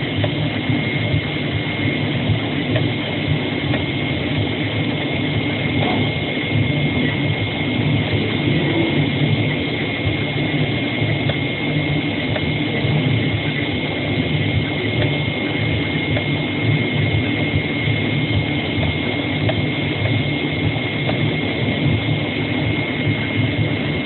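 AOKE CNC flatbed cutting machine running steadily: a continuous mechanical hum with a constant high-pitched whine over it.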